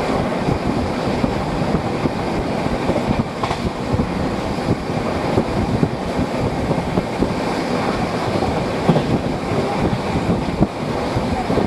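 Indian Railways passenger coach running at speed, heard at an open window: steady rumble of the wheels on the track with scattered clattering clicks, and the rush of passing air buffeting the microphone.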